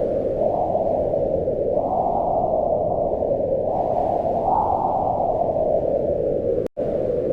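Howling wind: a band of rushing noise that swells and rises in pitch in gusts, about two seconds in and again about four and a half seconds in, then sinks back. It cuts out for an instant near the end.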